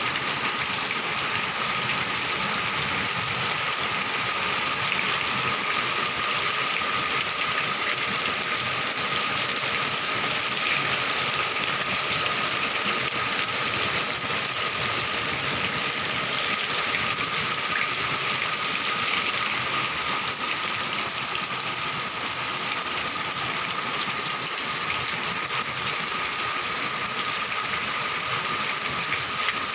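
Heavy cyclone rain pouring down steadily, a dense even hiss of rain and gushing runoff, with a steady high tone under it.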